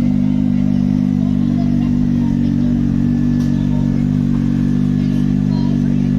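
Superbike engine running steadily at an even engine speed, its note holding one pitch without revving up or down.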